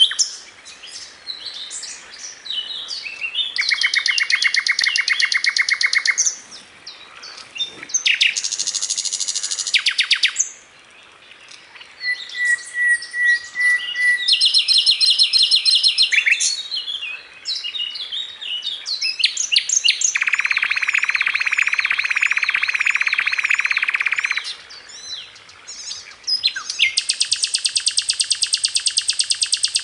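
A sikatan londo (a flycatcher) singing a long, varied song: a string of separate phrases of rapid high trills, chattering notes and buzzy stretches, some lower around the middle and a fast, very high trill near the end, with short pauses between phrases.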